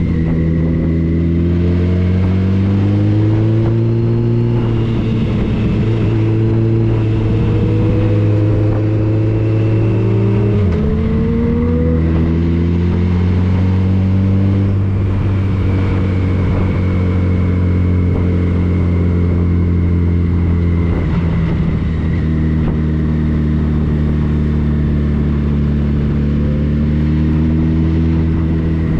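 Motorcycle engine running under way, its note rising and holding, with a sudden drop in pitch about ten seconds in, like a gear change, before it climbs again.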